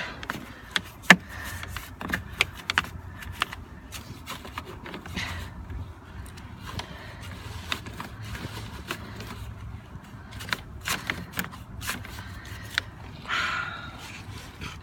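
Small broom sweeping snow out of an engine bay: irregular scrapes, clicks and light knocks, the sharpest about a second in, with a short swish near the end.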